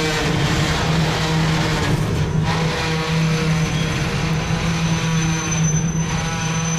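Covered grain hopper cars of a freight train rolling past at close range: a steady rumble of steel wheels on the rails. A thin, high wheel squeal comes in about two-thirds of the way through.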